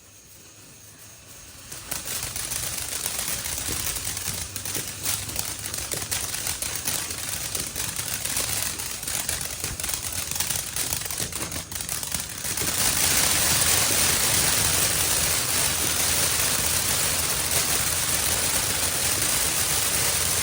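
500 gram firework fountain burning: after a faint lull it picks up about two seconds in with a spray of hissing and fast crackling, then surges at about twelve seconds into a louder, steady hissing gush.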